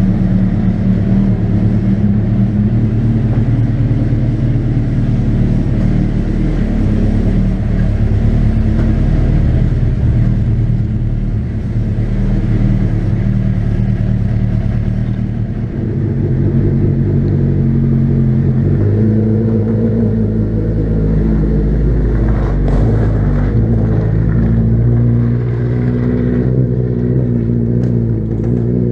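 Suzuki Hayabusa 1300cc inline-four engine in a tubular-chassis four-wheel-drive proto car, running continuously with its pitch rising and falling as the revs change.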